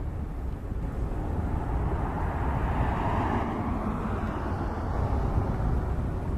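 Distant jet airliner engine noise, a broad rushing sound that swells to a peak mid-way and then fades, over a steady low rumble.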